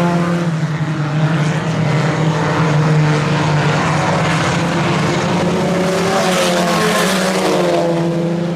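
Several four-cylinder IMCA Sport Compact race cars running at speed on a dirt oval, their engine note drawn out and changing pitch as the cars pass and come off the turns.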